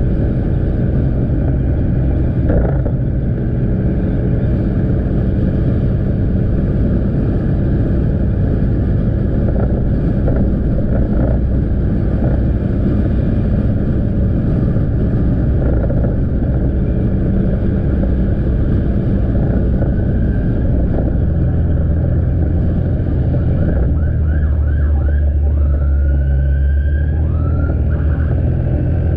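Motorcycle engine running steadily while riding, mixed with road and wind noise on the camera's microphone. A few short, high rising-and-falling squeals come near the end.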